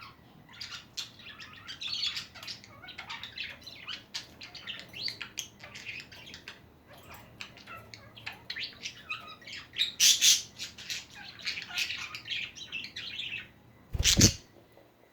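Budgerigar chattering: a long, fast run of warbling chirps and squeaky notes. It stops at about 13.5 s, and about a second later comes one short, loud knock-like noise.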